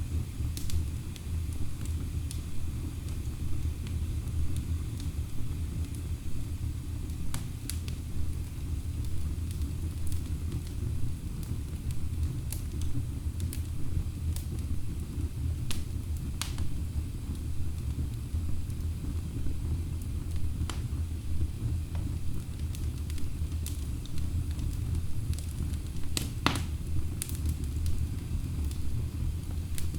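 Wood fire burning in a fireplace: a steady low rumble of the flames with scattered sharp crackles and pops from the logs, a few louder pops near the end.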